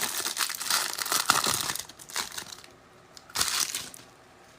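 Foil trading-card pack wrappers crinkling and tearing as packs are opened by hand. It is a dense crackle for nearly two seconds, then two short rustles, the second about three and a half seconds in.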